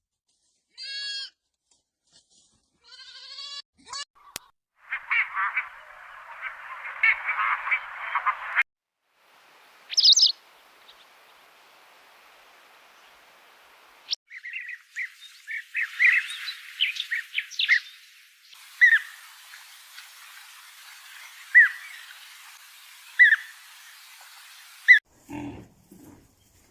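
A string of short animal-call clips, one after another: a few brief pitched calls, then a dense chorus of chirping for a few seconds, then scattered single chirps over a light hiss.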